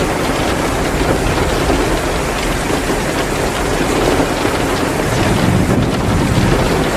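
Heavy rain pouring down steadily, with the crackle of a wood fire in a fireplace.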